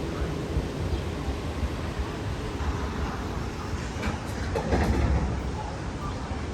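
A steady low rumble with a rattling clatter, like a train running on rails, swelling a little louder about four to five seconds in.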